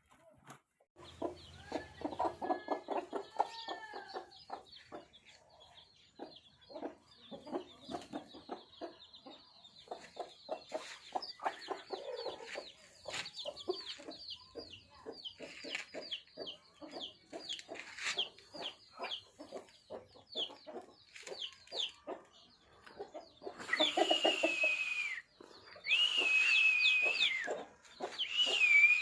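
Aseel chickens clucking, with a steady stream of quick, high chirps. Near the end a loud, high whistling tone sounds three times, each falling slightly in pitch.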